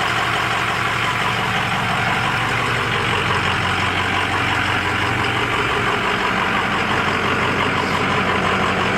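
2005 Ford 6.0 Powerstroke V8 turbo-diesel idling steadily through a 4-inch turbo-back straight pipe with no muffler or catalytic converter, shortly after a cold start.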